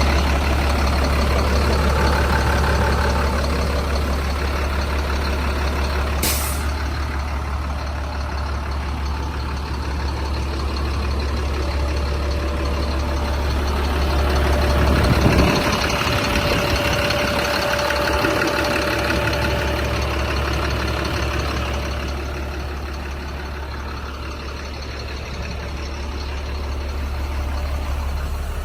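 A 2005 Chevrolet C7500 medium-duty truck's engine idling with a steady low rumble that eases off about halfway through. A single sharp click sounds about six seconds in.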